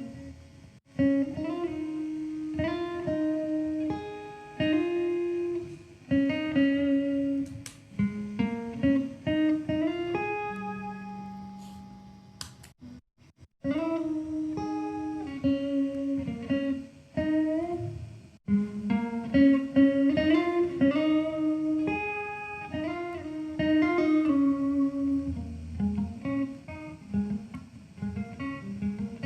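Instrumental music on a plucked string instrument, a melody of separate picked notes that breaks off briefly about 13 seconds in and again about 18 seconds in.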